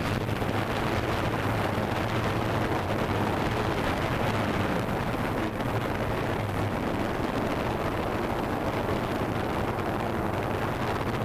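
DJI Phantom 2 quadcopter's propellers running with a steady low hum, under a wide rush of air noise on the microphone.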